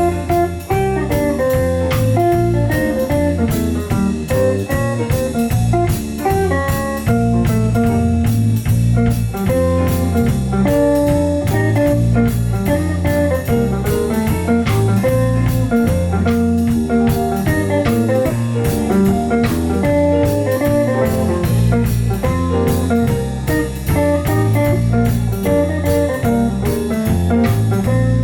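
Instrumental band music with guitar to the fore over bass and drums, keeping a steady beat.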